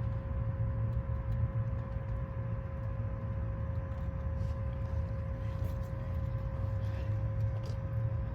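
Engine running steadily with a low rumble and a constant high hum, with a few faint ticks.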